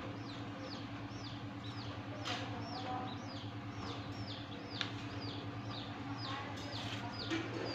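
A bird chirping over and over, short falling chirps about twice a second, over a steady low hum. A couple of soft crackles as paper is handled.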